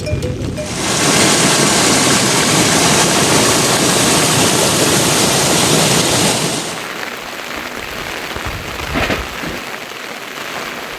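Heavy rain falling, a loud steady hiss that starts abruptly just under a second in and drops to a much quieter hiss of rain about six and a half seconds in.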